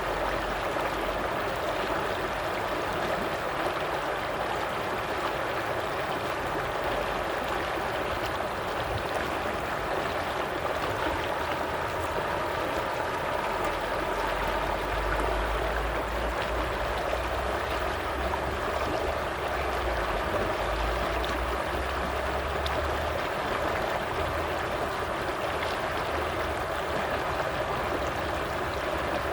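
Stream water flowing and gurgling, a steady rushing sound.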